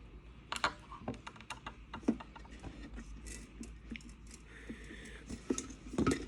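Irregular light clicks and taps of small plastic and metal parts of an electric kettle being handled and fitted together during repair, with sharper knocks about half a second and two seconds in.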